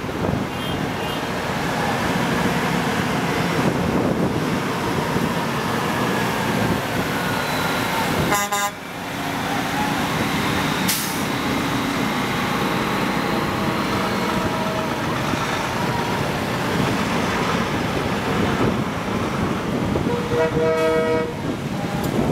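Big trucks driving past with engines running, and truck horns tooting briefly about eight seconds in and again near the end.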